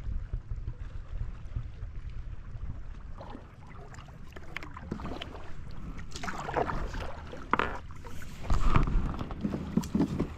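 Water splashing and sloshing around a kayak in a series of irregular splashes that grow louder from about three seconds in, with low wind rumble on the microphone before them.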